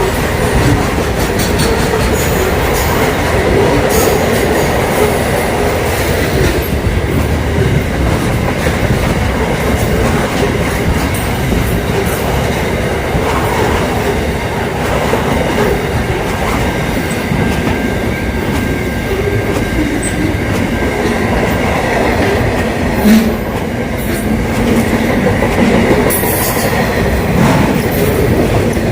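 A train running on the rails: a steady loud rumble of wheels on track with scattered clicks, a few sharper ones near the end, as the wheels cross rail joints.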